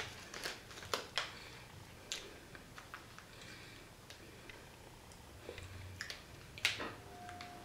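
Quiet chewing and wet mouth clicks from someone eating a chocolate sandwich cookie with hazelnut cocoa cream. Scattered short clicks come and go.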